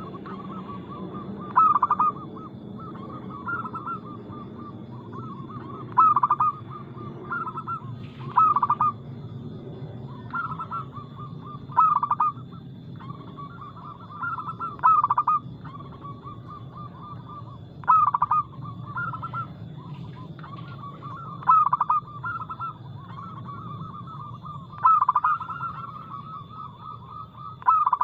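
Zebra dove (perkutut) cooing in a repeated phrase of soft coos around one pitch, with a loud accented note about every three seconds.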